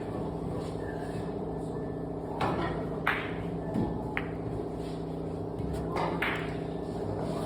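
Billiard balls clicking: a cue strike and several sharp ball-on-ball knocks spread across a few seconds, over a steady background hum.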